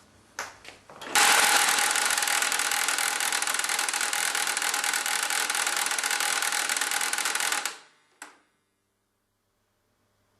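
HP LaserJet 1150 laser printer making a loud, rapid mechanical rattle with a steady whine through it, lasting about six and a half seconds before cutting off suddenly; a few light clicks come before it and one after. The noise is the sign of an unknown internal fault in the dead printer.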